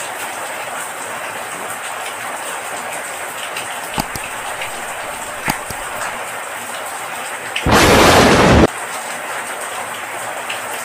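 Steady heavy rain, with a loud thunderclap lasting about a second, some eight seconds in. Two brief sharp cracks come a few seconds before it.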